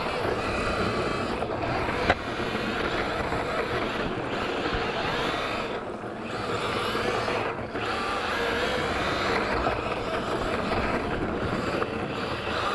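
Electric RC drift car with a sensored brushless motor running, a wavering motor whine over tyre and gear noise, dropping away briefly a few times as the throttle eases. A sharp click about 2 seconds in.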